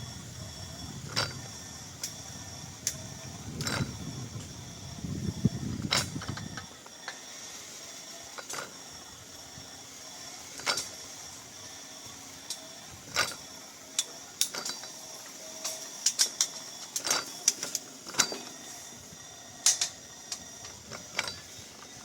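Irregular sharp mechanical clicks and creaks, with a low rumble underneath that stops about seven seconds in.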